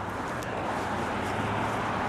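Road traffic noise, a vehicle approaching and growing steadily louder.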